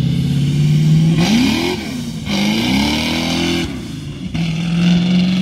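Car engine idling, then revved twice, the pitch climbing and falling back each time, before settling to a steady idle again.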